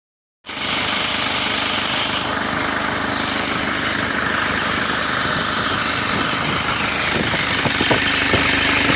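Isuzu D-Max's 4JA1 four-cylinder turbodiesel running steadily, with a few light knocks near the end; its turbo bearing is starting to have a problem. The sound starts suddenly about half a second in.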